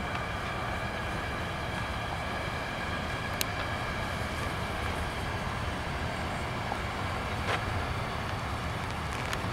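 Loaded container wagons of a freight train rolling past steadily, with a couple of sharp clicks about three and a half and seven and a half seconds in.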